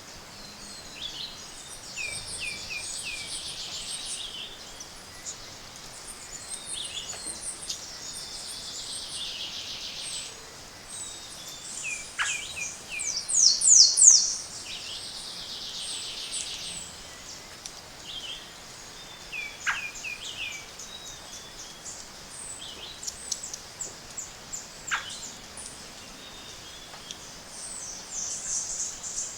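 Tropical forest dawn chorus: several birds singing at once, with buzzy trills, quick runs of high descending notes that swell loudest a little before halfway, and a few sharp downward-sliding whistles.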